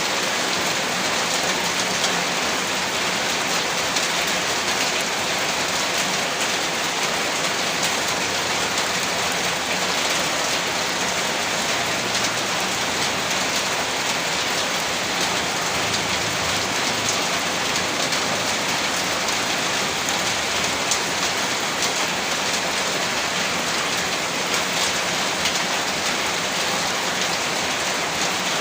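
Rain falling steadily: an even hiss, dotted with many fine drop ticks.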